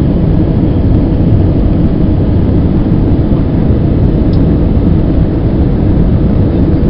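Steady, loud, deep rumble of an easyJet airliner's jet engines and rushing air, heard from inside the cabin in flight during the approach.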